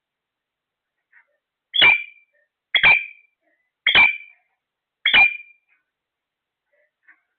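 A pet parrot giving four loud, short, harsh calls about a second apart, with a faint call just before and another near the end.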